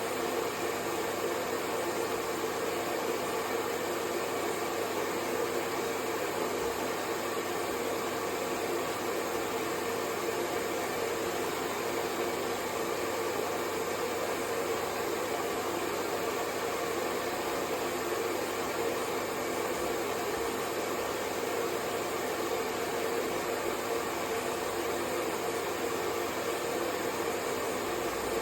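Hair dryer running steadily, a constant whooshing blow of air with a faint motor hum, used as white noise to lull a baby to sleep.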